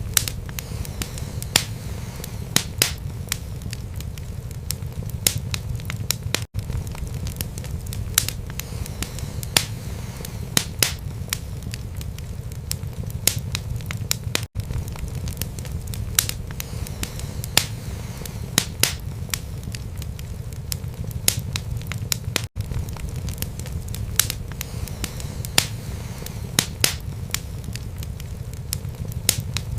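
Wood fire burning in a fireplace: a steady low rumble of flames with sharp, irregular crackles and pops from the burning wood. The sound briefly cuts out about every eight seconds.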